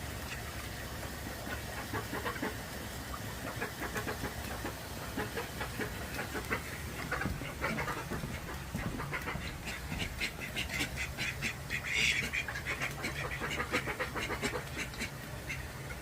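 Call duck making a run of short, quick quacking sounds, with a louder burst about twelve seconds in, over a steady low hum.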